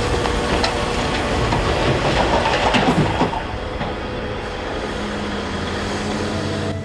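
Volvo excavator's diesel engine running with metal clanking from the machine, over a steady rush of water draining through the breached dam.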